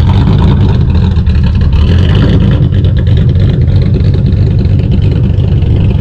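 A vehicle engine running loud and steady.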